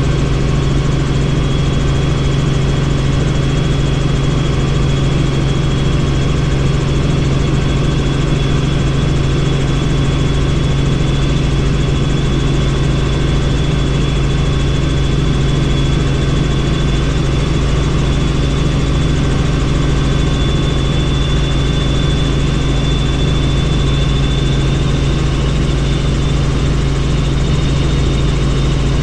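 Helicopter in flight, heard from on board: a steady, loud drone of engine and rotor with a thin, high whine held throughout.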